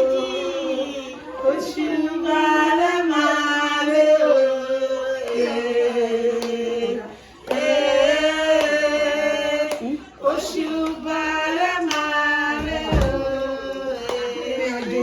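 Voices singing, holding long drawn-out notes, with brief pauses about seven and ten seconds in.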